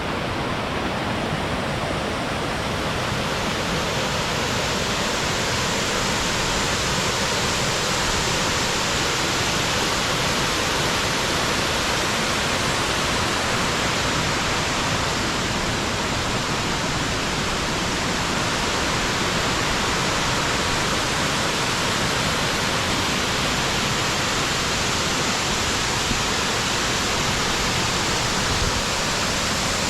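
Small natural waterfall pouring into its pool, giving a steady, unbroken rush of falling water.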